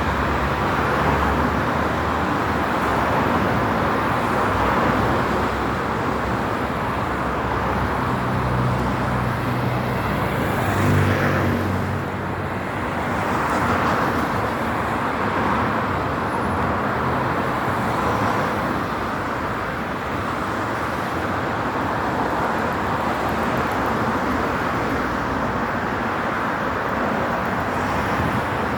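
Steady rushing noise of a storm, with a stronger low rumble swelling near the middle.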